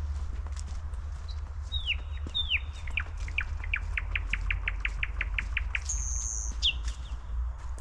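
Forest birds calling: a few downward-sweeping whistles, then a fast even series of about a dozen falling notes, and a brief high call near the end, over a steady low rumble.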